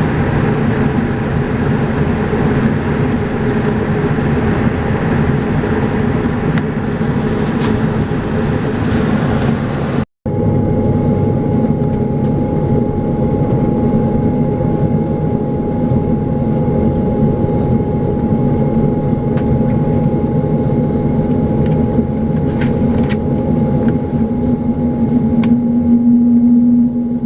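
Cabin noise inside a Saab 340B turboprop airliner: the steady drone of its General Electric CT7 engines and propellers, with a steady humming tone over it. The sound cuts out for an instant about ten seconds in, then resumes, and a low hum grows louder near the end.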